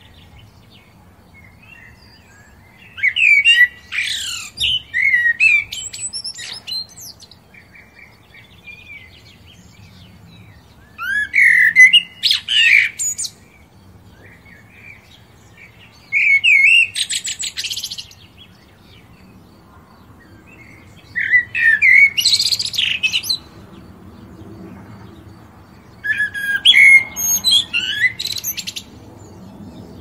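A bird singing: five loud, complex, warbling phrases of about two seconds each, repeated roughly every five seconds, with quieter twittering between them.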